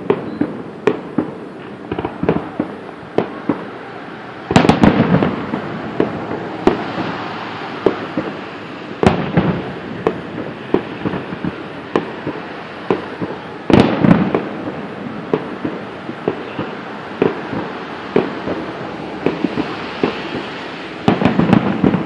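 Aerial fireworks shells bursting: a steady string of sharp bangs and pops, with louder crackling volleys about four seconds in, around nine and fourteen seconds in, and again near the end.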